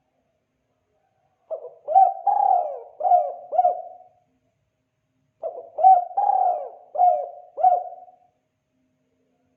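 Spotted dove (tekukur) cooing: two phrases of about five low coos each, the second following about four seconds after the first.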